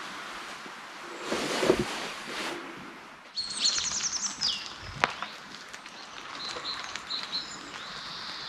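Songbird singing in woodland: a fast, high trill about three seconds in, then a few short high chirps later on. A brief scuffing bump about one and a half seconds in is the loudest sound, and a single sharp click comes about five seconds in.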